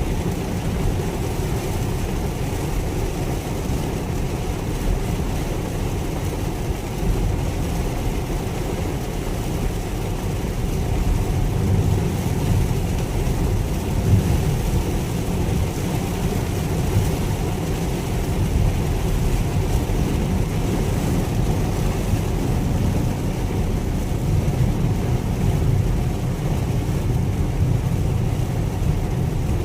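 Cabin noise inside a 2022 Mitsubishi Xpander driving through heavy rain: a steady low rumble of road and drivetrain, with the hiss of rain on the car over it.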